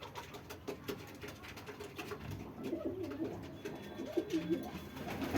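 Domestic pigeon cooing in low rolling phrases from about halfway in, growing louder near the end, with scattered light clicks throughout.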